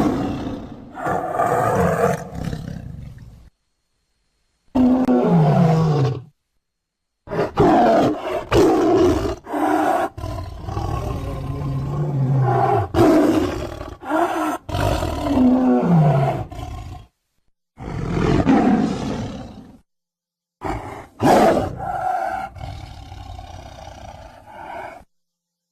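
Tiger roars and growls in a series of separate calls, some sliding down in pitch. They are broken by several sudden, dead-silent gaps where one recording cuts to the next.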